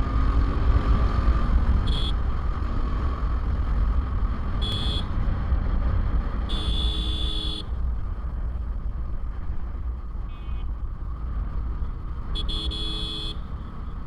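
Steady low wind and road rumble from a motorcycle ride, with vehicle horns honking: short toots about 2 and 5 seconds in, a longer blast around 7 seconds, a faint one near 10 seconds and another long blast near the end.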